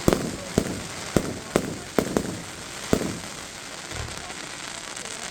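Fireworks going off: about seven sharp bangs in the first three seconds over a steady crackling hiss, then quieter for the last two seconds.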